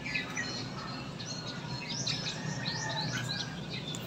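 Small birds chirping with many quick, repeated high notes, over a steady low hum.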